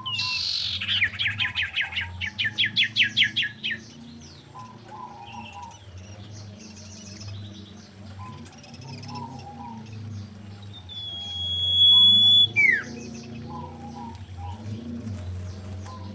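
Common iora song: a loud, fast run of repeated notes at the start, about four a second for three seconds, then softer scattered chirps. Later comes one long, loud, steady whistle that ends in a quick downward slide.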